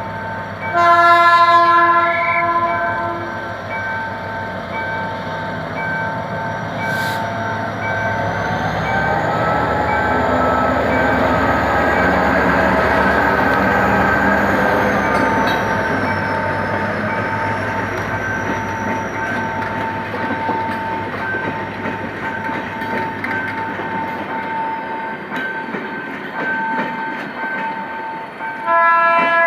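GM GT22CW-2 diesel locomotive sounding its air horn about a second in, then pulling its passenger train away with the engine throttling up and the cars rumbling and clattering past. An evenly pulsing warning bell rings throughout, typical of a level crossing, and the horn sounds again at the very end.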